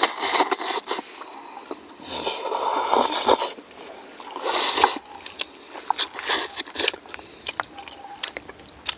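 Jjajangmyeon noodles being slurped and eaten in several loud rushes about a second long each, with short sharp clicks in between.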